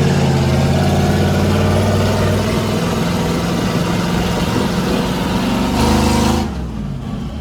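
Monster truck's engine running hard under throttle, then dropping back sharply about six and a half seconds in.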